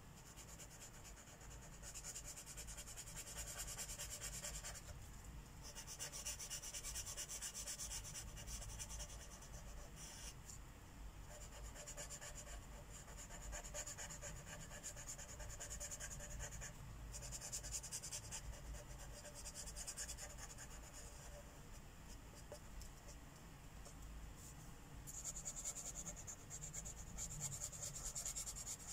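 Marker tips rubbing on paper as a mandala is colored in: rapid scratchy back-and-forth strokes in stretches of a few seconds, with short pauses between.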